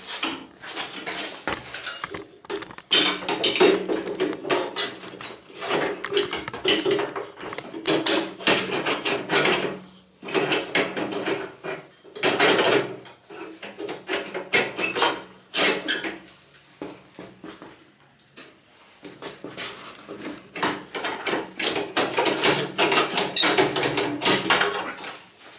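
Metal parts and hand tools clinking and clattering as they are handled, many short knocks and clicks.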